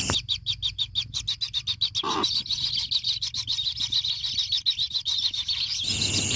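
Kingfisher chicks calling in the nest hole: a rapid series of short chirps, about ten a second at first and then sparser, over a steady high insect trill.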